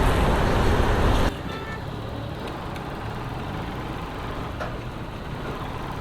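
Loud wind and road noise from a moving motorcycle that cuts off abruptly just over a second in, leaving a quieter, steady low engine hum with traffic noise.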